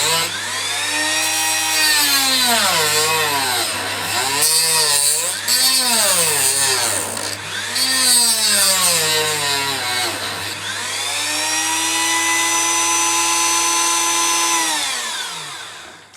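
Small high-speed rotary tool cutting through the copper-clad sleepers between the rails, to break the copper so the two rails do not short. Its whine dips and recovers again and again as it bites, runs steady for a few seconds, then winds down and stops near the end.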